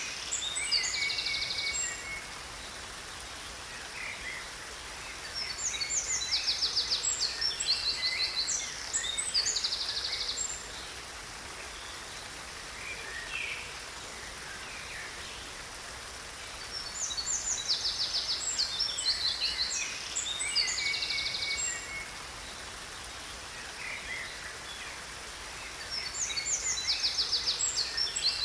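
Songbirds singing in recurring bouts of rapid high trills and chirps, each bout lasting several seconds and returning about every ten seconds, over a steady hiss of falling water from a waterfall.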